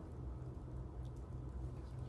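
Quiet room tone with a low steady hum.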